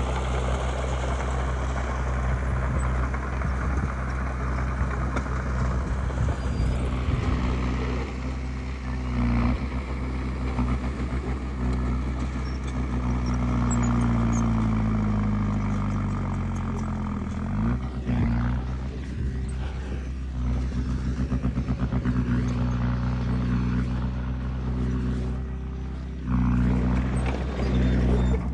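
Heavy diesel engine running throughout. About halfway through, its pitch sinks over several seconds, then it revs sharply back up. Near the end it steps up in level again.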